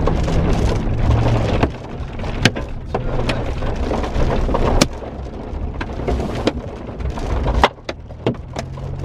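Heavy rain drumming on a vehicle, easing off about two seconds in, with hailstones striking the body in sharp separate knocks, about a dozen of them.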